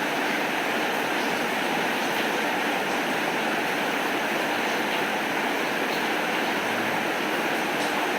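Heavy rain falling steadily, a dense even hiss, with a few faint ticks.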